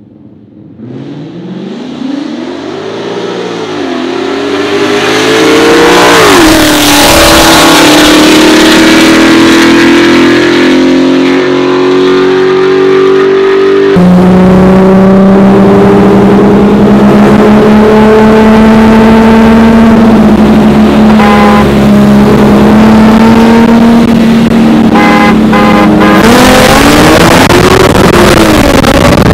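Street-racing cars at full throttle. First a 5.0 V8 and an Infiniti G37's V6 on E85 with bolt-ons race toward the camera, their engine notes rising and dropping at gear changes as they close in and get loud. After a sudden cut, a tuned Nissan 350Z HR V6 heard from inside the car holds a high, slowly climbing engine note under full throttle, with another upshift near the end.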